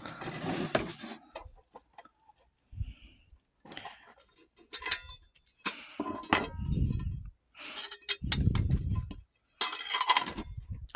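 Small hard objects clinking and knocking together as they are handled and rummaged through in a box, with scattered sharp clicks and two muffled low rumbles of about a second each from handling.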